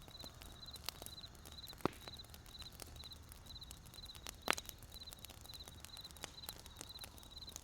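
Campfire wood crackling with sharp pops, two louder ones about two and four and a half seconds in, while crickets chirp steadily in the background about twice a second.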